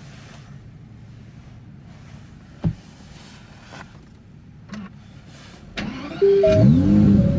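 Aston Martin DB11 AMR's 5.2-litre twin-turbo V12 being started, heard from the cabin: about six seconds in there is a short crank, then the engine catches and its revs flare up and fall back. Before that there is only a low hum and one sharp click.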